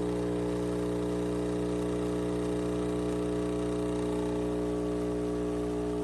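ICUIRE 20-bar compact espresso machine's pump running with a steady, constant hum while it pulls a double espresso shot.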